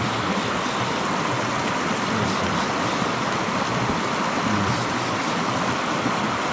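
Mountain stream water rushing with a steady, even noise.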